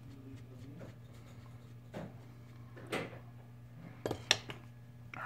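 A few small, sharp clicks and taps of a phone's parts and repair tools being handled during reassembly, with a short cluster of clicks near the end.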